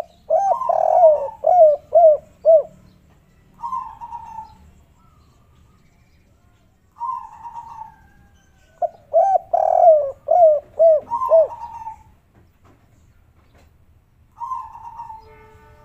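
Spotted doves cooing: twice a phrase of several quick, repeated coo notes, with shorter single coos in between, in the 'kuk 3' song type.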